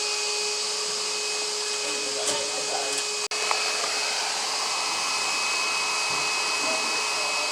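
A steady rushing noise with no rhythm, with a faint steady hum in it that stops about three seconds in.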